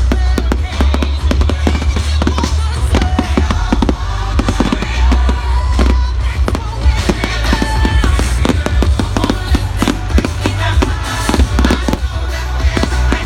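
Fireworks going off in quick succession, a dense run of bangs and crackles, over loud music with a deep bass.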